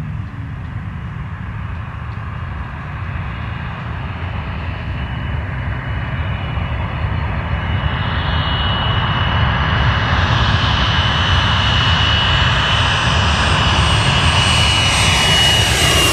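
Airliner on its landing approach flying low, its engine noise growing steadily louder with a steady high whine as it comes nearer.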